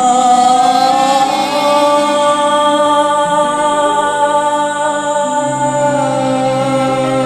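Georgian folk song performance: a long held, slightly wavering sung note over sustained accompaniment chords, with a low bass note coming in about five seconds in.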